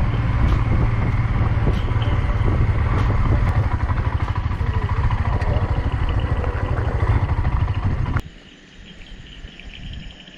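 Royal Enfield Himalayan single-cylinder motorcycle riding along, its engine rumble mixed with steady road and wind noise. About eight seconds in this cuts off suddenly to a quiet scene with insects trilling.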